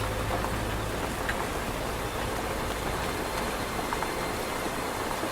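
Steady rain falling, an even hiss with the odd faint drip.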